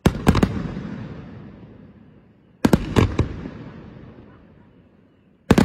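Aerial firework shells bursting in three volleys of three or four sharp cracks each, a little under three seconds apart. Each volley trails off in a fading echo.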